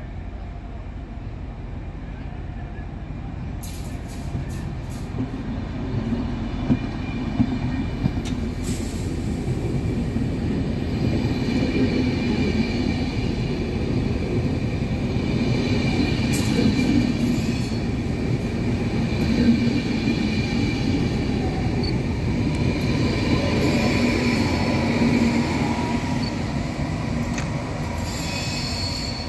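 Passenger train running on the rails: a steady rumble that builds over the first several seconds, with scattered sharp clicks, and a high wheel squeal sounding over it from about a third of the way in.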